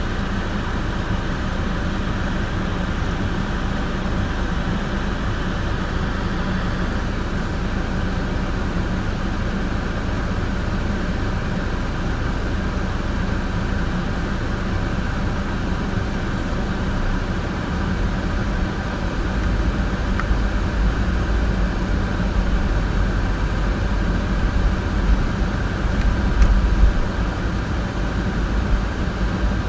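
Steady road and engine noise of a car being driven, heard from inside the cabin. A deeper rumble grows louder in the second half.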